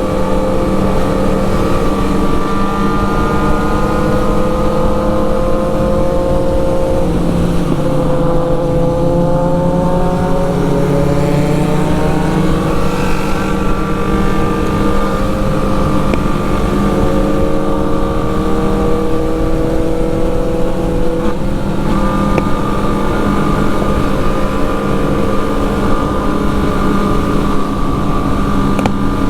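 Motorcycle engine running under way at a fairly steady speed. Its pitch drops about seven seconds in, climbs gradually over the next several seconds, and settles again near the end.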